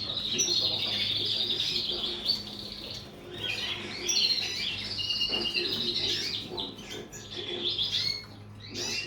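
Canaries singing in a birdroom: rapid trilled, twittering song phrases that come in spells, with short lulls a few seconds in and near the end. A steady low hum runs underneath.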